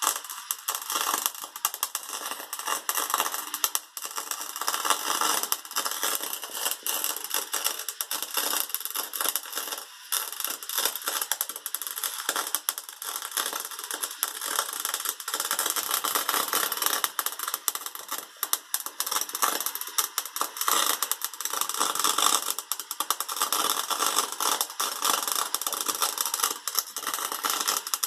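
Electric arc welding: a steady, dense crackle and sizzle from the welding arc, broken by brief pauses about 4, 10 and 18 seconds in, when the bead is stopped and restarted.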